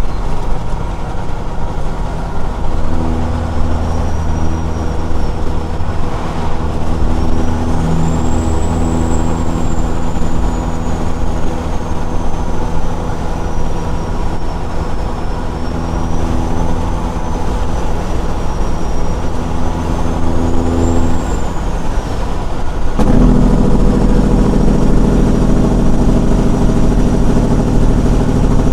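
Caterpillar 6NZ diesel in a big rig, heard through straight exhaust pipes, running steadily under way. About three-quarters of the way through the sound changes suddenly and gets louder and heavier.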